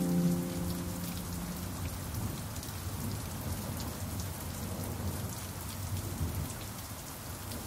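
Steady rain with many small drop ticks. The last pan drum notes ring on and fade out in the first second or two, leaving the rain alone.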